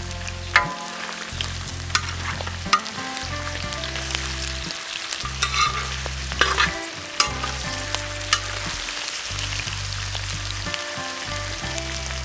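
Mutton tails and onions sizzling in oil in a steel plough-disc pan, with a steady hiss. A metal fork scrapes and taps against the disc several times as the meat is stirred, giving sharp clicks.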